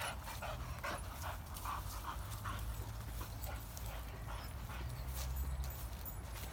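A dog panting in short quick breaths, most of them in the first half, over a steady low rumble.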